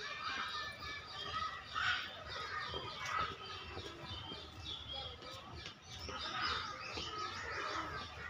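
Birds chirping, a rapid run of short, high notes repeated many times, with a low rumble underneath.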